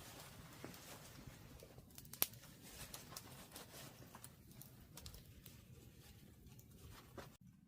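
Faint, scattered clicks and taps over low background noise, with one sharper snap about two seconds in; the sound cuts off abruptly near the end.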